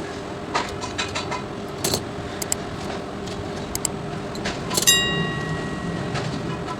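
Scattered clicks and clinks of small tools and metal parts being handled during amplifier wiring work, with one ringing metallic clink about five seconds in, over a steady low hum.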